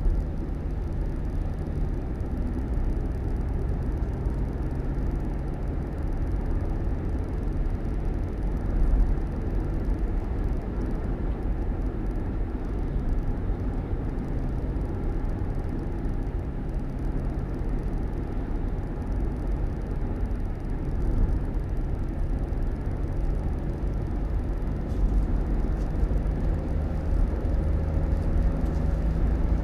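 Steady low rumble of a running motor vehicle, with a faint engine hum.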